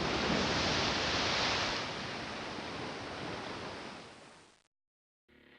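Rushing noise of sea waves and surf, loudest in the first two seconds and fading out over about four seconds. After a brief silence, faint music starts right at the end.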